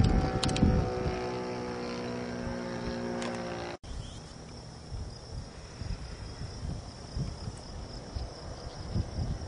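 RC model airplane engine running steadily. A little under four seconds in it cuts off abruptly, giving way to a steady high insect hum and gusts of wind buffeting the microphone.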